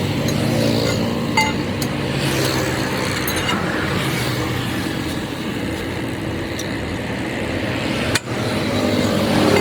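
Steady vehicle and traffic noise with a few light metallic clinks, the first about a second and a half in.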